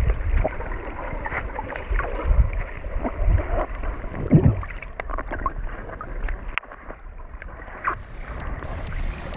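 Water sloshing and splashing around a snorkeler, heard muffled and dull, with low rumbling and scattered small knocks. A faint high whine stops about two-thirds of the way through.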